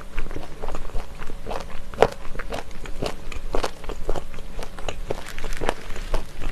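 Crunchy chewing of spicy chicken feet close to the microphone: quick, irregular crunches and clicks as the pieces are bitten down.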